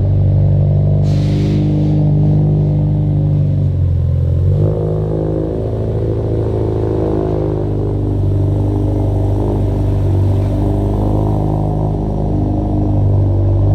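Subaru Forester XT's turbocharged engine running at a steady speed, its note shifting about four and a half seconds in.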